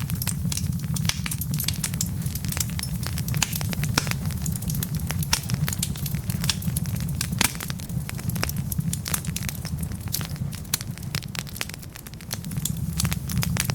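Wood fire in a fireplace crackling, with many sharp snaps and pops from the burning logs over a steady low rumble of flames. The fire goes briefly quieter a little before the end.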